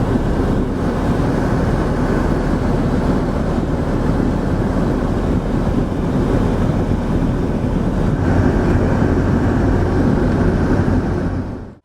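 Machinery running steadily with a low hum, cutting off suddenly near the end.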